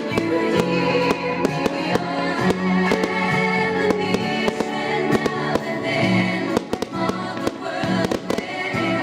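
Fireworks going off, many sharp bangs in quick, irregular succession, over music.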